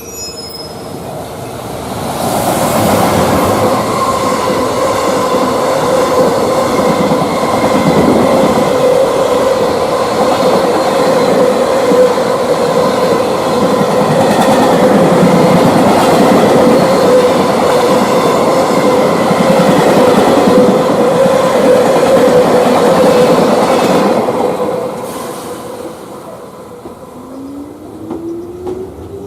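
Freight train passing: wagons clattering over the rail joints, with a steady ringing tone from the wheels on the rails. It grows loud about two seconds in, holds for about twenty seconds, and dies away near the end.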